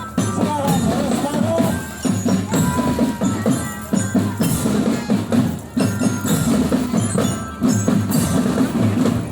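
School marching drum band playing: drums beat a busy, steady rhythm while bell-like mallet percussion carries the tune.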